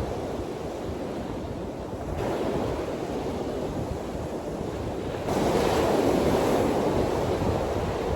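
Waves washing in, with wind blowing over the microphone. The sound changes abruptly twice, about two and five seconds in, and is loudest after the second change.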